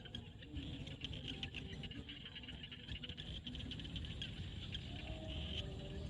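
Frog chorus in a field at dusk: a dense mass of fast clicking calls, with short low croaks here and there.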